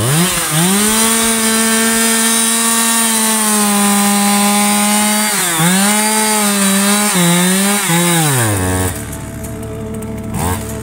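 Ogawa Pro VX8224 two-stroke chainsaw revved to full throttle, cutting into a tree stump. Its pitch dips briefly twice as the chain bogs down in the wood, then drops back to idle about two seconds before the end.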